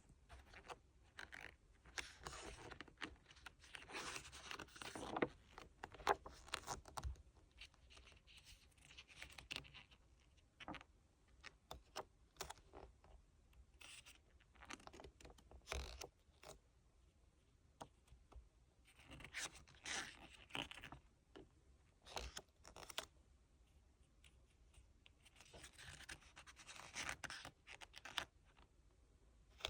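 Hands handling a photobook-version K-pop album and its paper inserts: irregular rustling, scraping and small taps, in three busier spells.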